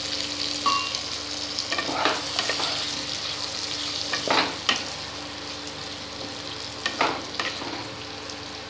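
Pumpkin and potato pieces sizzling in oil and spice paste in a pan, with a spatula scraping and stirring them in several short strokes about two, four and seven seconds in.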